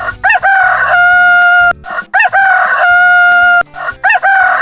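Rooster crowing cock-a-doodle-doo three times, each crow ending in a long held note.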